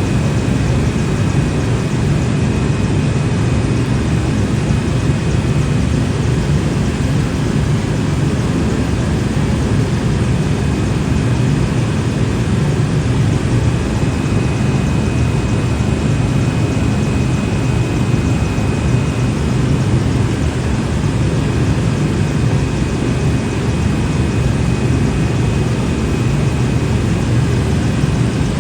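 Helicopter noise: a steady engine and rotor drone with a thin, steady high-pitched whine over it.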